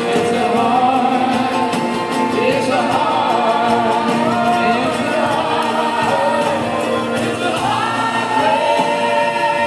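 Live band music in a passage without lyrics: long held melody lines that slide from pitch to pitch over the band.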